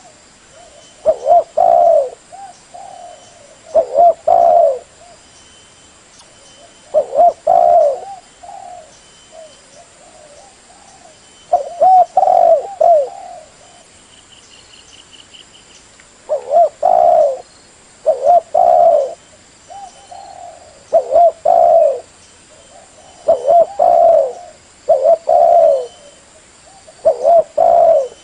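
Spotted dove cooing: about eight phrases of a few low, rolling coos, one phrase every two to four seconds.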